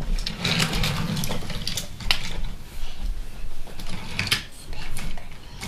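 Toy trains being handled: clicks and clacks, with a low rumble in the first second and a half and a sharper click about two seconds in and again past four seconds.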